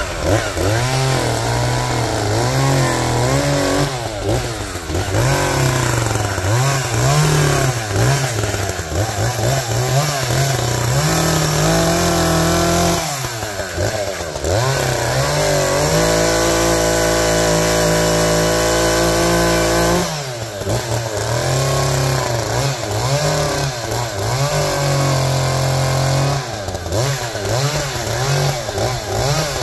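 Engine running loud and steady in level, its pitch rising and falling every second or so as the load changes, then holding one even pitch for a few seconds past the middle.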